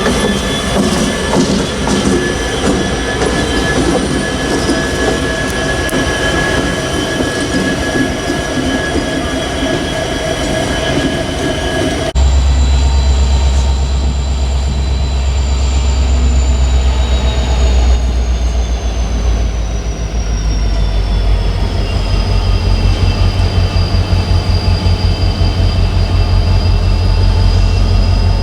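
Freight train rolling past: the rumble of the cars with high, steady squeals from the steel wheels. About twelve seconds in, the sound switches abruptly to a heavier, deeper rumble, and a high wheel squeal slides slowly down in pitch.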